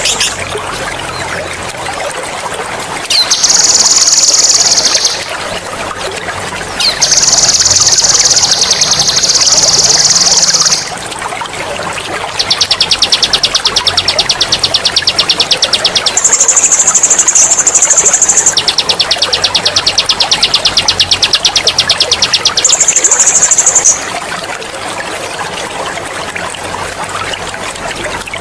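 A songbird's rapid, high-pitched rolling trills ('ngerol'), in about six bouts of one to four seconds that shift between a lower and a higher pitch, over a steady trickle of running water. The trills stop a few seconds before the end, leaving only the water.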